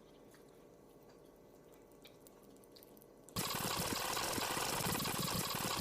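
A few faint ticks, then about three seconds in a loud steady rush of running water starts suddenly.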